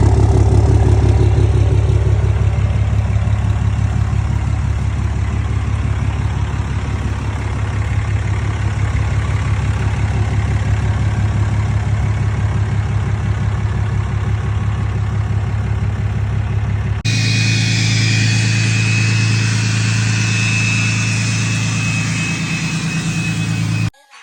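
Cummins diesel truck engine running steadily, in two clips: about 17 seconds in the sound changes sharply to a second recording with a steady high whine over the engine.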